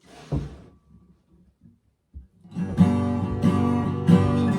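A short thump near the start and a few faint taps, then a guitar strumming chords in a steady rhythm from about two and a half seconds in, opening a song.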